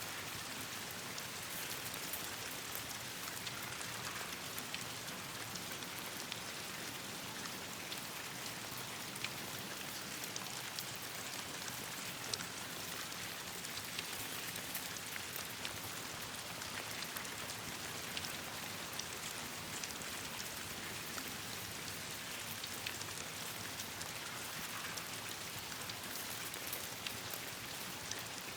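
Steady rain falling, with many small sharp ticks scattered through it.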